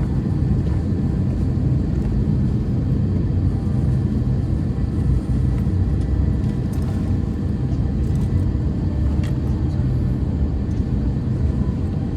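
Steady low cabin rumble inside an Airbus A321-200 on the ground after landing, heard from a window seat.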